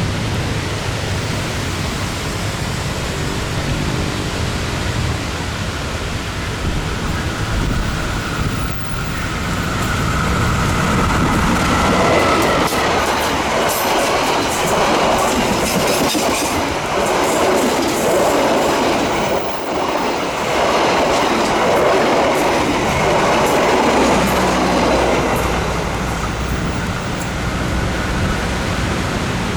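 Indonesian long-distance passenger train passing: a low rumble builds, a thin high tone sounds about nine seconds in, then the wheels clatter loudly over the rail joints for about a dozen seconds before easing off near the end.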